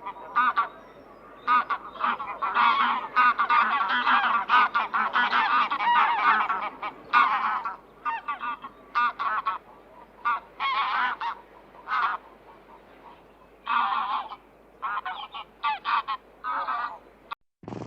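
A flock of waterfowl calling: many short overlapping calls, dense for the first several seconds, then coming in separate bunches with short gaps.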